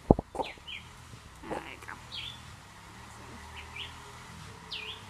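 Wild birds chirping, short quick falling calls repeated every second or so. A single sharp thump right at the start is the loudest sound.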